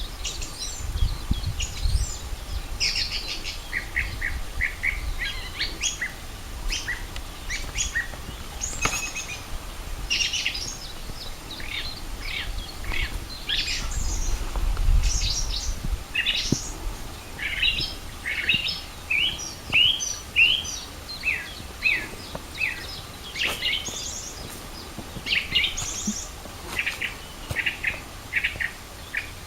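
Several songbirds singing, a dense overlapping run of short high chirps and trills. A low rumble comes through twice, near the start and about halfway.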